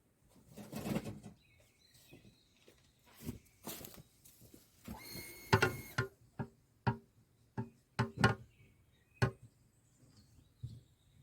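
A run of sharp, irregular knocks and clunks, about a dozen, with a brief rustle near the start; one knock about five and a half seconds in rings briefly.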